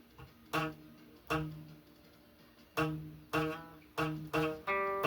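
Guitar chords struck in short stabs that die away quickly, about seven of them, coming faster near the end where the last chords are left to ring.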